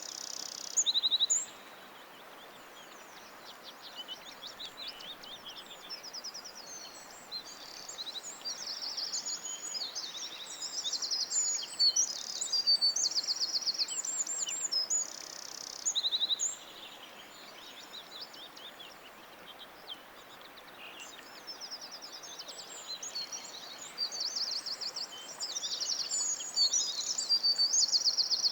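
Several songbirds singing at once: rapid high trills and chirps overlapping, in louder and quieter spells, over a faint steady hiss.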